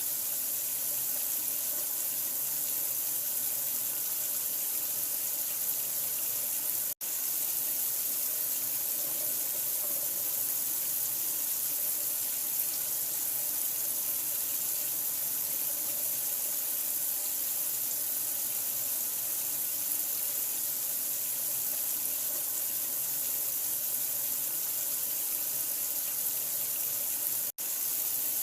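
Running water, a steady even rush of splashing that cuts out for an instant about seven seconds in and again near the end.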